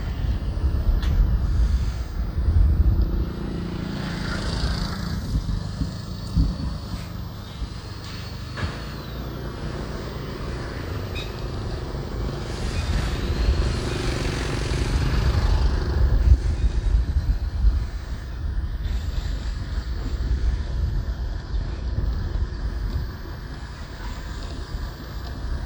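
Riding on a motorbike through traffic: a steady rumble of engine and road noise with wind buffeting the microphone, and other vehicles swelling past now and then.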